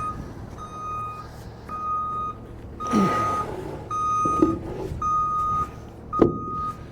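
Vehicle backup alarm beeping steadily, about one beep a second, over a low engine rumble, with a few sharp knocks in between.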